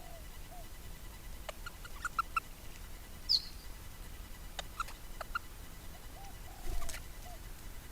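Birds calling: scattered short chirps and ticks, with one sharp, high, falling call about three seconds in. A short burst of noise comes near the end.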